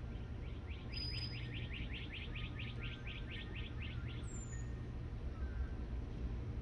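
A songbird trilling: a rapid, even run of repeated notes, about five a second, lasting some three and a half seconds. Under it, a steady low rumble of breeze on the microphone.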